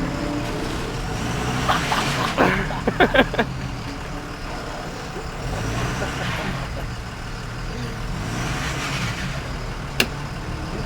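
Engine of a truck stuck in dirt running with a steady low rumble, swelling twice in a rush of noise as it tries to drive free. A cluster of sharp clatters about two to three seconds in, and a single sharp click near the end.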